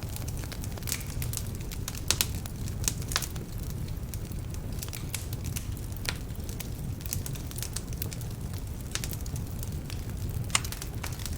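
Wood fire burning in a fireplace: a steady low rumble of flames with irregular crackles and sharp pops from the logs, some of them damp. The loudest pops come about two, three, six and ten seconds in.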